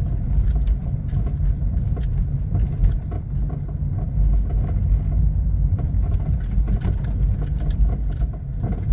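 Car driving over uneven pavement: steady road rumble with repeated light, irregular knocks from the front suspension or steering, a "tec, tec, tec" over every small bump. The driver suspects a worn tie rod end or stabilizer link.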